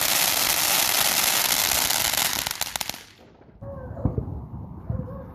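A firework crackling and hissing densely and loudly for about three seconds, ending in a few separate sharp pops before it cuts off suddenly. After that, a lower rumble with a couple of soft thumps.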